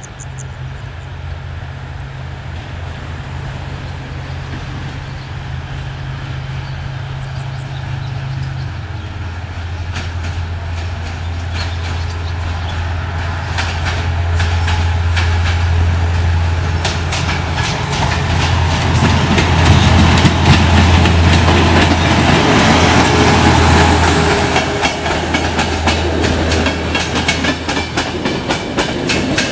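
A CFR class 82 LDH diesel-hydraulic locomotive approaches and passes with a passenger train. Its low, steady engine drone grows louder throughout, and from about ten seconds in the clickety-clack of wheels over rail joints builds up. The carriages rattle past loudest in the second half.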